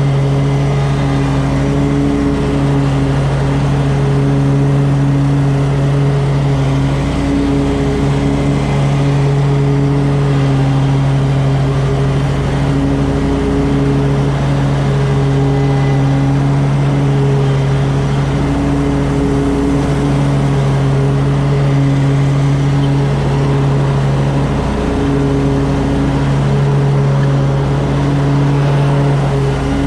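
An engine running steadily at a constant speed, with an unchanging drone.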